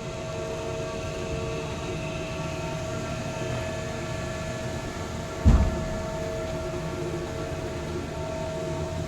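Truck-loading belt conveyor running steadily: a low rumble with a steady motor whine. A single loud thump about five and a half seconds in.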